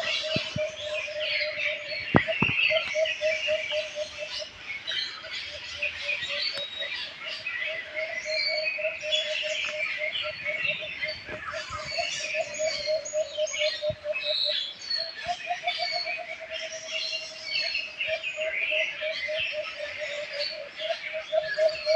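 A chorus of many small birds chirping and twittering over one another without pause. Beneath it runs a steady, rapid series of low pulsing notes, several a second.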